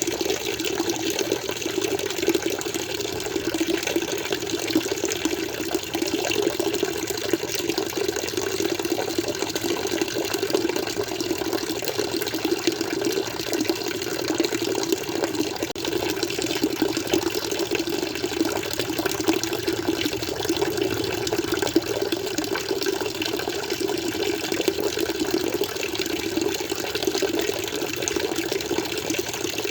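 Water flowing steadily in a continuous, unbroken rush.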